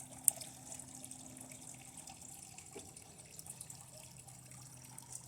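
Circuit board components sizzling and crackling with scattered faint ticks as high current from a lead-acid battery flows through them, with one sharp snap about a third of a second in.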